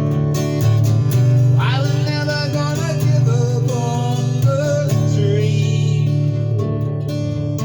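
Music: acoustic guitar strumming steady chords, with a wavering, bending melodic line over it from about a second and a half in.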